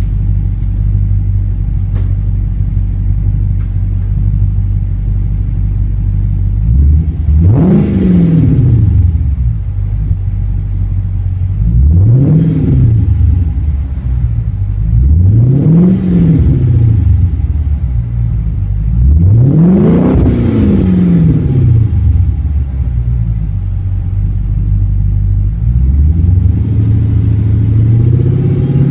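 Dodge Charger SRT8's Hemi V8 through a Magnaflow exhaust, idling with a deep rumble, then revved four times, each rev climbing and falling back to idle; a fifth rev starts to climb near the end.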